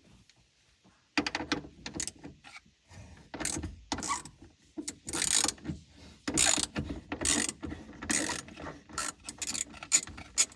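Socket ratchet clicking in quick bursts, starting about a second in, as the 10 mm battery terminal nuts are loosened.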